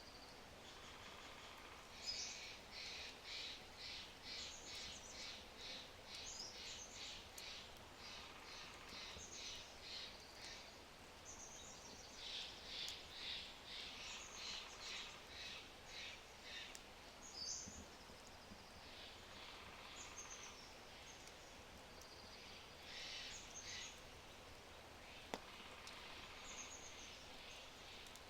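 Songbird singing long runs of quick, evenly repeated high notes, about three a second, three times over, with short chirps from other birds in between. A single sharp crackle from the low wood fire comes near the end, over a faint steady hiss.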